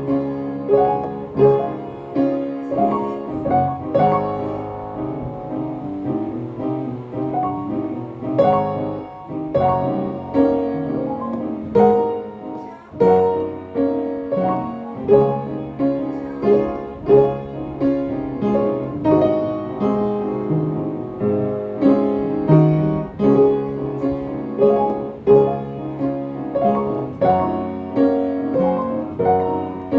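Piano music: a steady run of notes, classical in style.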